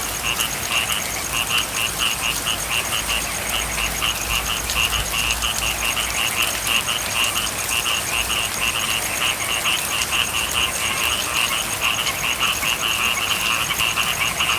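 A chorus of frogs calling in rapid, repeated pulsed notes over the steady hiss of rain.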